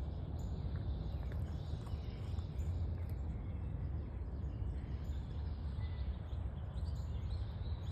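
Steady low outdoor rumble, with a few faint, high bird chirps over it.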